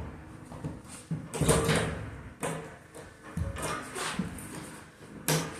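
A heavy steam radiator being wiggled and shifted into line with its pipe: a few scrapes and clunks, about five in all, at uneven intervals.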